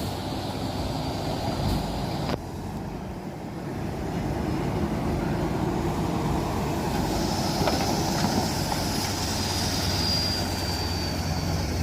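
Heavy truck engine running under load, with a sudden break a couple of seconds in. A high whine comes in about seven seconds in and runs for a few seconds, falling slightly in pitch.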